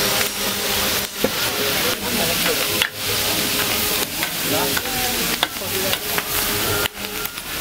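Food sizzling in a large paella pan as it is stirred: a steady, dense sizzle with brief breaks.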